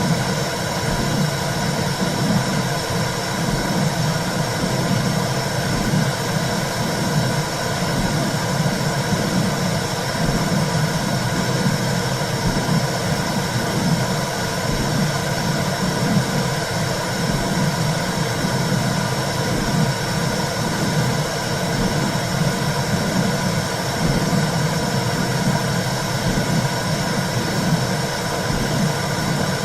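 Womb sound for soothing a baby: a steady low whooshing noise that keeps pulsing in its low end.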